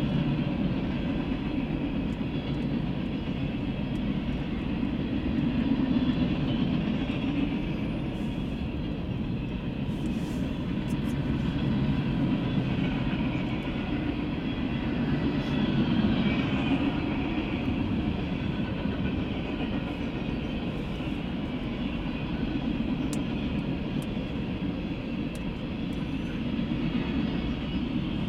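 Freight train cars rolling steadily past: a continuous low rumble of steel wheels on rail, with fainter higher rail noise above it. It swells and eases a little as the cars go by.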